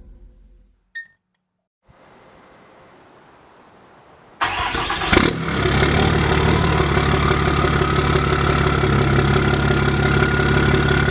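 Big-turbo Cummins diesel engine cranking and catching about four and a half seconds in, then idling steadily with a turbo whistle that slowly rises in pitch.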